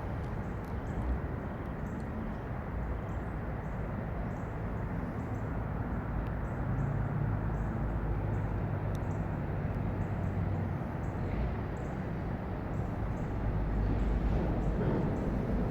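Steady outdoor rumble of distant traffic and diesel engines, with a low engine hum that swells for a few seconds in the middle and a heavier rumble building near the end.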